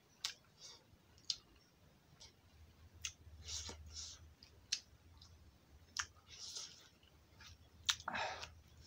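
Close-up eating sounds: a person chewing, with sharp wet mouth clicks and lip smacks at irregular moments, about half a dozen in all, and softer chewing noises between them.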